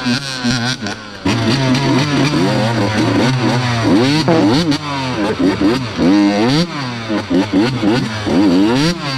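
Dirt bike engine being ridden hard, revving up and dropping back again and again as the throttle is opened and shut.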